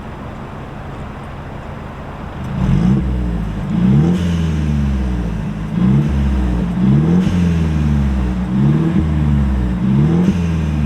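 Mercedes E300's turbocharged four-cylinder exhaust with the cutout valves fully open: it idles steadily, then, about two and a half seconds in, a series of quick throttle blips to around 2,000 RPM, each rising and falling in pitch.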